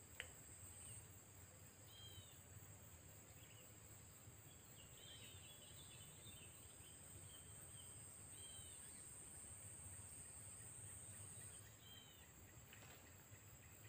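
Near-silent riverside ambience: a small bird gives short, repeated two-note chirps every couple of seconds over a steady thin high hum, with one faint click at the very start.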